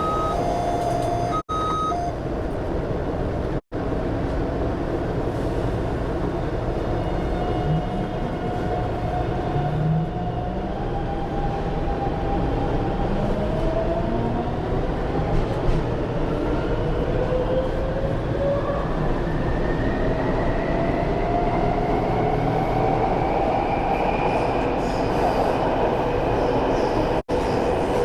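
MTR Tuen Ma line train running, with a steady rumble of wheels and running noise. Its motor whine rises slowly in pitch over the second half as the train gathers speed. A short electronic tone sounds twice in the first two seconds.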